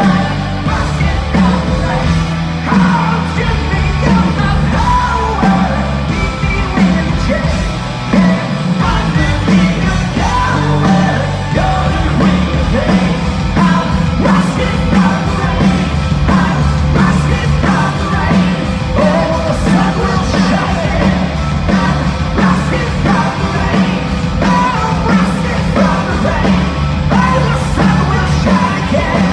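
Live punk rock band playing loudly, with yelled singing over the music.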